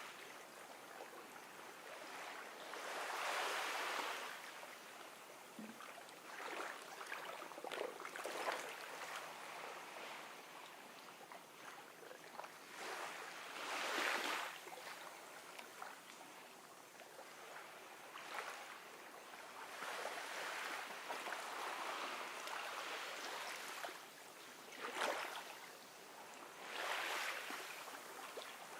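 Gentle ocean waves washing up on a beach, a soft wash that swells and fades every few seconds.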